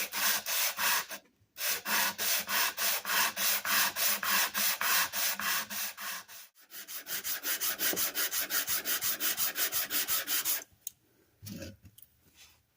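Cast-iron frog of a hand plane being hand-sanded flat on abrasive, in fast, even back-and-forth scraping strokes, several a second. The strokes break off briefly twice, go on more quietly after the second break, and stop a couple of seconds before the end.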